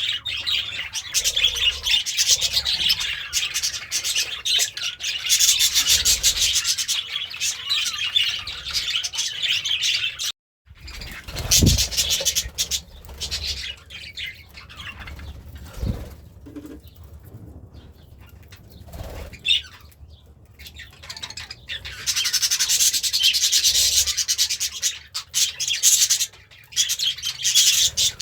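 Pet budgerigar warbling: a dense, fast run of high chattering chirps that stops abruptly about ten seconds in. After a short gap come scattered single chirps and a few soft knocks, and near the end the chatter starts up again.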